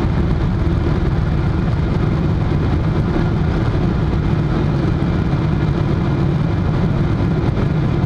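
Steady jet engine and airflow noise heard inside the cabin of a Boeing 777-300 under way around takeoff, even and unbroken, heaviest at the low end.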